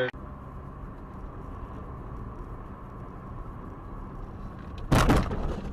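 Steady low vehicle and road noise with a faint high whine, then about five seconds in a sudden loud impact that dies away over half a second.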